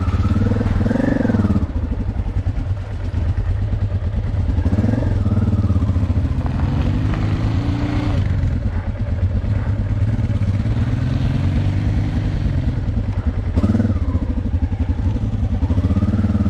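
Honda Transalp 600 V-twin motorcycle engine running under load and revving up and back down several times as the bike slithers through deep mud.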